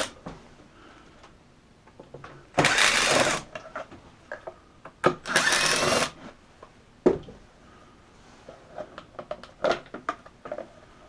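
Compressed air hissing out of a small compressor's tank in two short blasts, each about a second long, with light clicks and knocks of tool handling between them.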